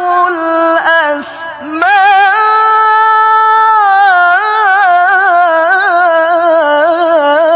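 A solo reciter's voice in melodic Quranic recitation, drawing out the word "lahu" into a long ornamented melisma with wavering turns. There is a short break with a breath about a second in, then one long held note that carries on.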